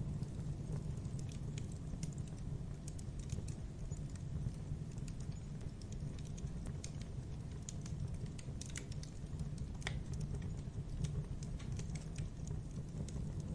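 Wood fire of burning logs crackling: irregular sharp pops and snaps over a steady low rumble of the flames.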